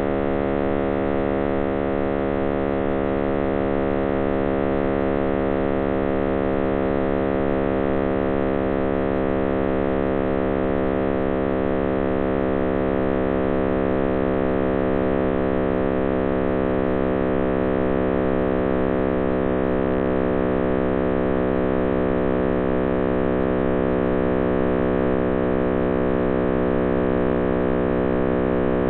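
John Cramer's computer-simulated sound of the Big Bang, made from cosmic microwave background data: a dense, steady hum of many stacked tones, slowly falling in pitch.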